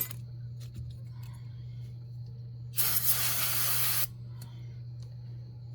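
One spray from an aerosol can, a hiss lasting a little over a second about three seconds in, over a steady low hum. A short click at the very start.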